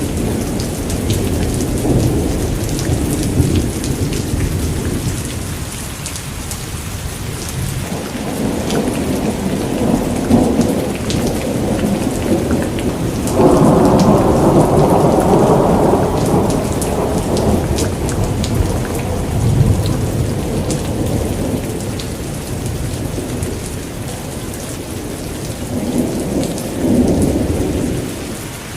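Steady heavy rain with dense patter of drops, under rolling thunder that swells and fades several times; the loudest rumble comes about halfway through and lasts a few seconds.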